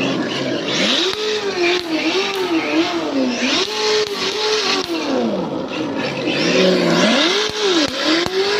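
Simulated drift-car engine sound from an RC car's electronic sound kit, played through its onboard speaker, revving up and down over and over with the throttle. A few short sharp pops are heard among the revs.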